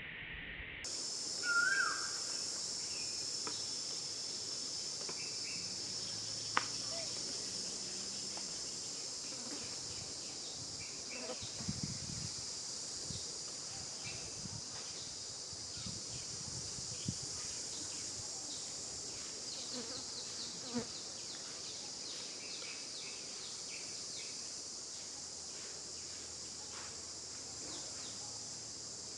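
Steady high-pitched drone of insects in the forest, starting about a second in and holding even. A brief high call rises near two seconds in, and light scattered clicks and taps come and go.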